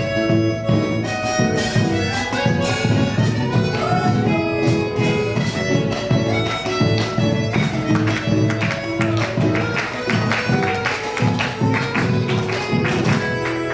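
A band playing a chacarera, the Argentine folk dance music, with sustained string notes over a steady run of percussive strokes.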